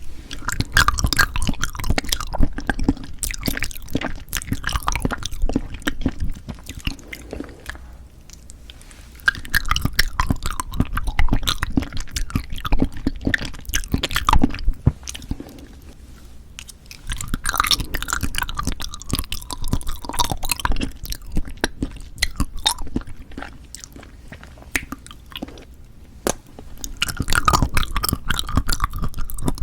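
Close-miked chewing of Cheonhyehyang citrus cup jelly, in spells of several seconds with short quieter pauses between them.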